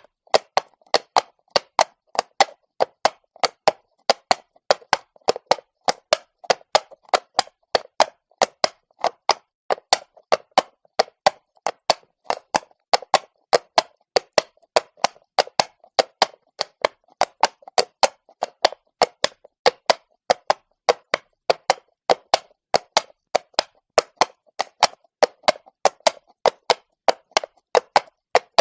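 Horse's shod hooves clopping on cobblestones at a walk, a steady uneven rhythm of sharp clops, about three to four a second.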